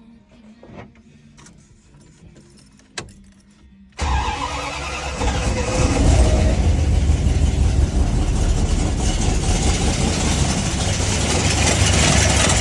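A few faint clicks, then about four seconds in a car engine suddenly starts and keeps running loudly: its first start after a repair of the fuel-pump drive on the cam and a re-torqued number 6 connecting rod.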